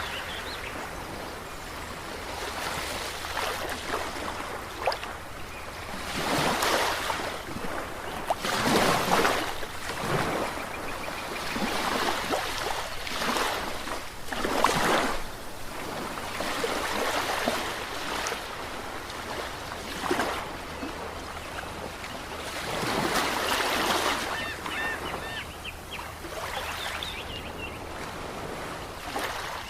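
Ocean waves breaking and washing up on the shore, a surge of surf every few seconds over a steady hiss of water.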